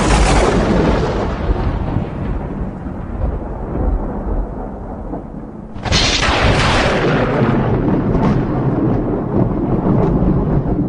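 Thunder: a loud crash that rolls off into rumbling, then a second sharp crack about six seconds in, followed by more rumbling with faint crackles.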